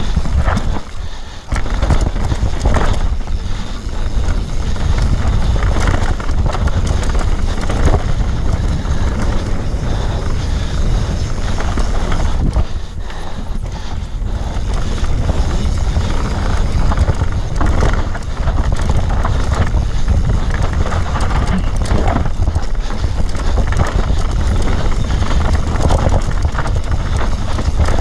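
Wind buffeting the microphone, with the rattle and knocks of riding fast over a rough dirt trail. It eases off briefly about a second in and again around halfway.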